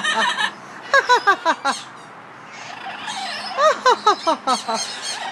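Pet bird calling in three runs of short, quick chirps that each slide down in pitch, with a quiet pause in the middle.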